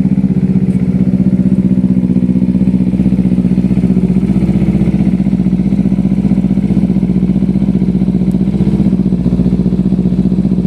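Kawasaki Z250 FI parallel-twin engine idling steadily through an Austin Racing aftermarket exhaust, a loud, even, rapid pulsing beat with no revving.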